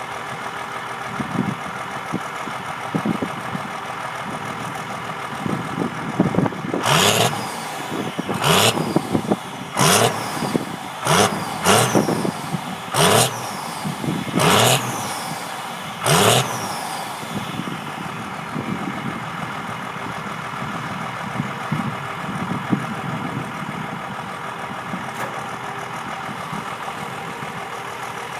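Cummins 5.9 12-valve turbo diesel idling, then blipped hard about eight times in quick succession between about 7 and 16 seconds in, each rev bringing a loud rush of air and a whistle falling away after, before it settles back to a steady idle.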